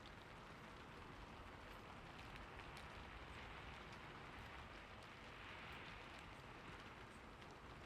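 Faint, steady rain: an even patter and hiss of rainfall with a few scattered drop ticks.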